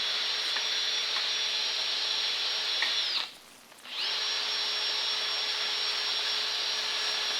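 High-speed handheld power tool cleaning an engine gasket mating surface, with a steady high-pitched whine. It winds down a little after three seconds, then spins back up about a second later and runs on.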